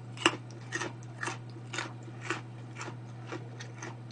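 Crunchy chewing of a raw kohlrabi slice close to the microphone, about two crunches a second.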